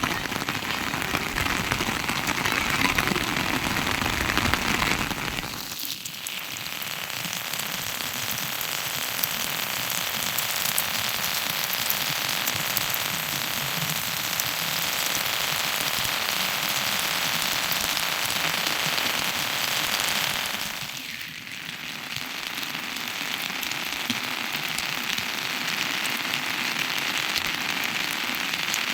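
Steady rain falling, a dense even patter that dips briefly twice.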